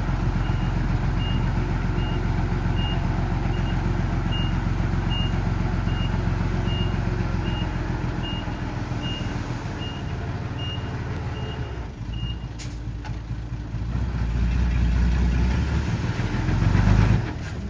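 Dump truck reversing, its reversing alarm beeping evenly about once every three-quarters of a second over its running engine. The beeping stops about twelve seconds in, and the engine then grows louder for a few seconds.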